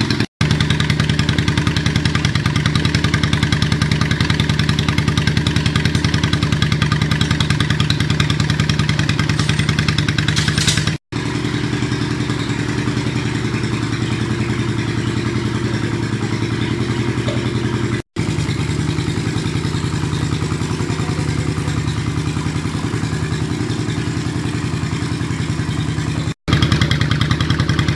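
Yamaha Virago 535's air-cooled V-twin running at a steady idle through direct, unbaffled exhaust pipes. The sound drops out for a split second four times.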